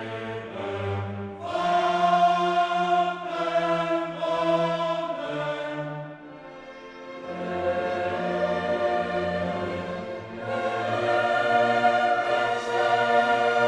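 Background choral music: a choir singing long held notes with orchestral accompaniment, dropping quieter about six seconds in and swelling again after.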